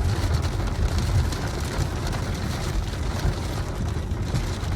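A moving car's steady low road and wind rumble.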